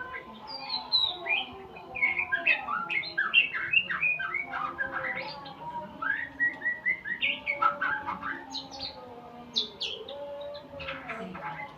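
Murai songbird singing a long, varied song of rapid chirps, short trills and whistled notes, one after another with hardly a break; the song of a young murai learning its song.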